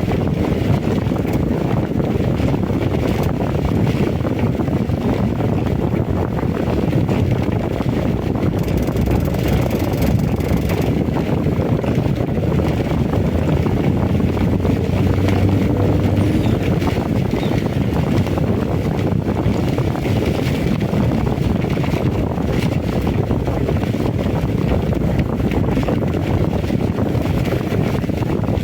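Heavy rain and strong wind: a steady rushing noise with a low wind rumble on the microphone.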